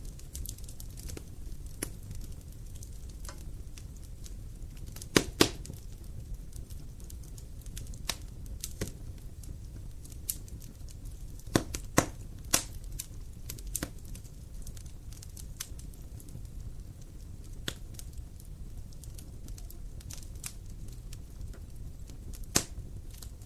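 Wood fire crackling over a steady low rumble of flame, with irregular sharp pops of burning wood. The loudest pops come in small clusters about five and twelve seconds in, and one comes near the end.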